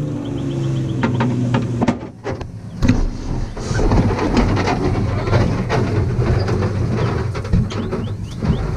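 A vehicle engine whose pitch falls over the first couple of seconds, then a loud, noisy rumble of vehicle travel, with a few sharp knocks about two seconds in.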